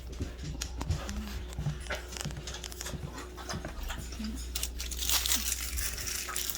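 Belgian Malinois mix dog panting, with scattered small clicks and rustles and a louder stretch of hiss about five seconds in.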